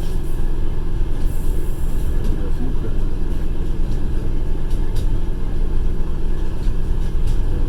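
Passenger railway carriage running at speed, heard from inside: a steady low rumble of wheels on the rails with scattered light clicks and rattles.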